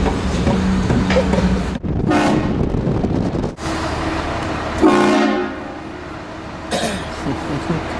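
Aftermarket train horn fitted to a car blasting twice: a short blast about two seconds in and a louder, longer one near the middle that fades away, over the low rumble of the vehicle.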